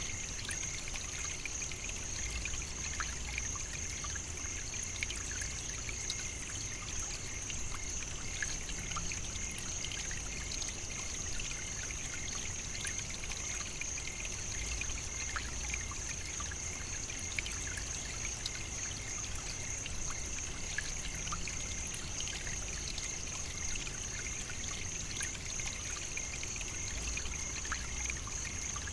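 Steady African savannah nature ambience: an even, unbroken high-pitched hiss with a fine fluttering texture and scattered faint ticks.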